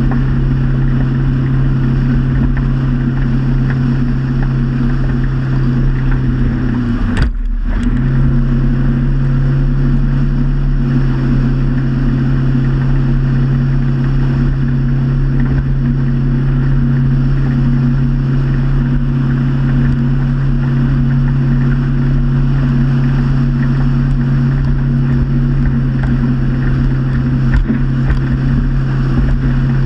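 Motorboat engine running steadily at cruising speed with a constant hum, which briefly dips and drops out about seven seconds in before picking straight back up.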